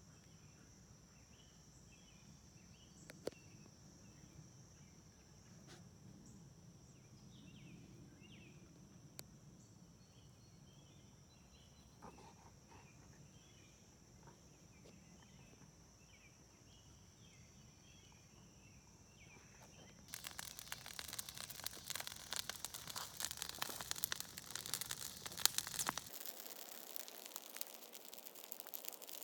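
Steady high drone of summer insects with scattered bird chirps and a few faint clicks. About two-thirds of the way through it gives way abruptly to dense crackling and popping from a burning brush pile.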